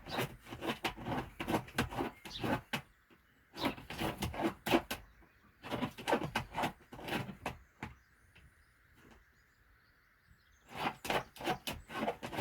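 A hen scratching and rustling through nesting bedding in a plastic tray, in four bursts of quick scrapes and rustles with quiet gaps between.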